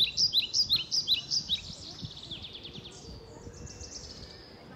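A songbird singing: a run of sharp high chirps repeated about five a second, going into a faster trill about two seconds in, over a faint outdoor background.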